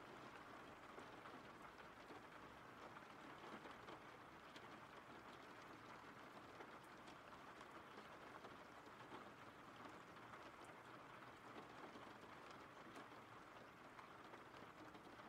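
Faint, steady rainfall: an even hiss of rain with scattered light drop ticks.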